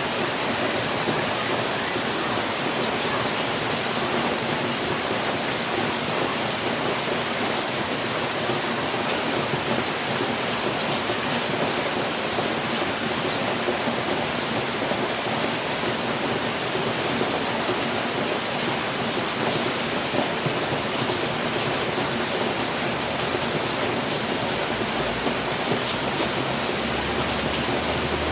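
Steady heavy rain falling on a house roof, an even rushing hiss with faint scattered drop ticks.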